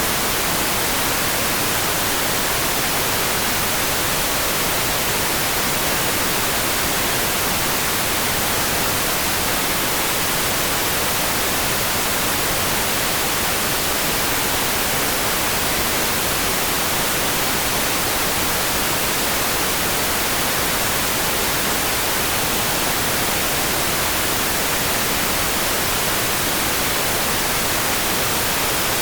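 Steady hiss of rain, an even, unchanging wash with no single drops standing out.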